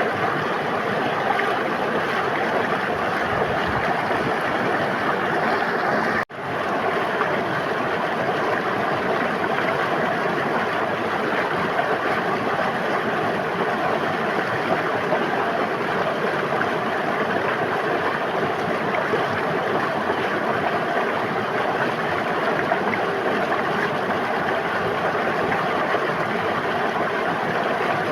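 Steady rushing and burbling of a flowing river. The sound cuts out for an instant about six seconds in, then resumes.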